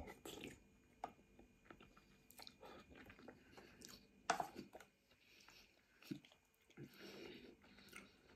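Faint chewing of a mouthful of egg noodles, with soft wet mouth sounds and scattered light clicks, one sharper about four seconds in.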